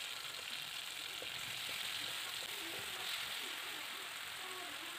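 Ground spice paste with keluak frying in hot oil in a wok: a steady sizzle, with the paste being stirred.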